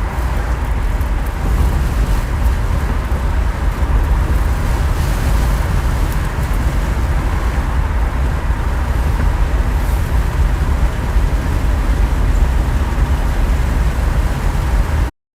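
Car cabin noise while driving with the windows open: a steady, loud low rumble of engine, tyres and wind that cuts off abruptly near the end.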